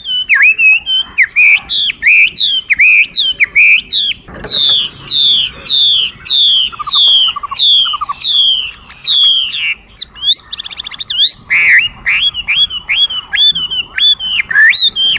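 Chinese hwamei (画眉) singing loudly, a varied run of clear whistled phrases. Past the first few seconds comes a long series of about a dozen repeated falling whistles, then a short buzzy rattle, then quick rising-and-falling notes.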